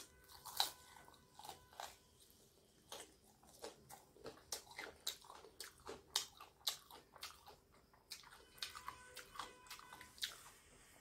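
A person biting into a fried chicken leg piece and chewing it close to the microphone: a loud bite about half a second in, then irregular chewing with many small clicks and crackles.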